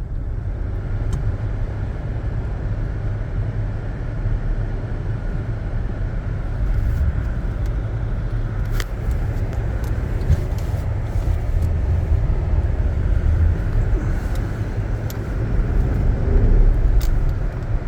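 Cabin sound of a Jeep Grand Cherokee's V6 driving through deep snow: a steady low rumble of engine and tyres, with scattered light clicks. It grows louder about three-quarters of the way through.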